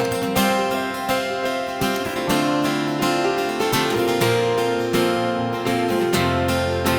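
Acoustic guitar strumming chords in a steady rhythm, changing chord about two seconds in and again near the end: the instrumental introduction to a worship song, before the singing starts.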